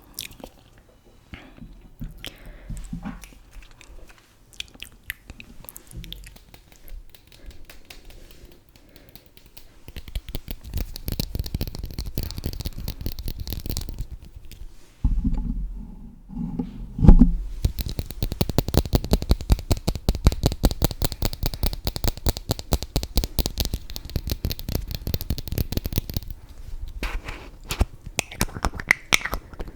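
Close-miked ASMR makeup sounds: scattered light taps and handling, then, from about ten seconds in, a fast, even run of brushing strokes against the microphone with a low rumble, broken by one sharp knock.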